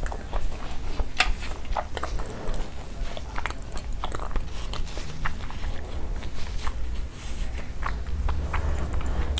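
Close-miked eating sounds: sauce being licked and sucked off fingers, then chewing with the mouth closed, heard as irregular wet smacks and clicks. A steady low hum runs underneath and grows louder near the end.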